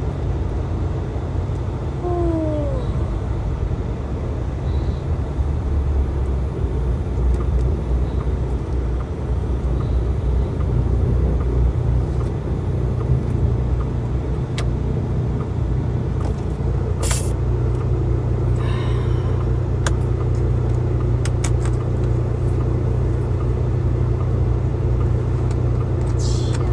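Heavy truck's engine running with a steady low rumble, with a few short clicks about two-thirds of the way through and near the end.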